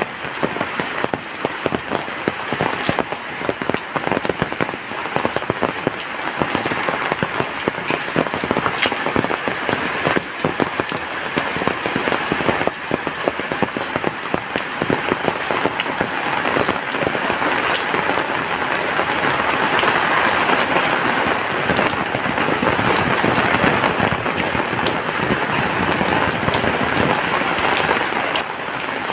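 Heavy rain falling steadily, a dense patter of drops on surfaces, growing somewhat louder in the second half.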